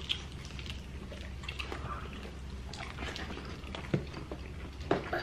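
Close-up eating sounds of people biting into and chewing chicken wings: wet chewing and lip smacks, with a couple of sharper clicks about four and five seconds in, over a steady low hum.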